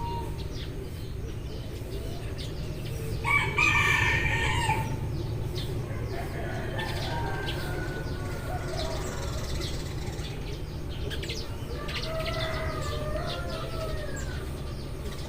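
Eurasian tree sparrows chirping in quick short notes, with a rooster crowing loudly about three seconds in and fainter crows from further roosters later, over a steady low hum.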